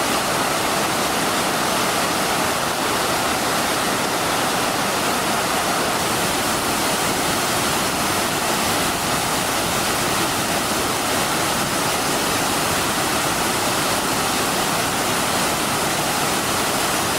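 Ryumon Falls pouring steadily: a loud, even rush of falling water with no break or change.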